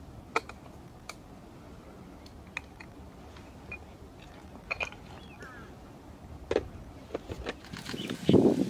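Scattered sharp clicks and taps over a quiet outdoor background, with a few faint brief chirps and a louder low thump near the end.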